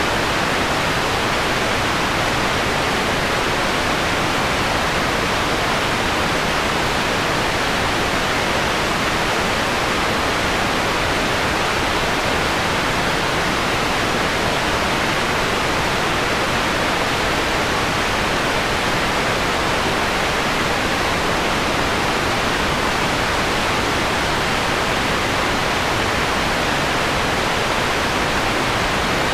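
Steady synthesized white noise: a constant, even hiss with its top end softened.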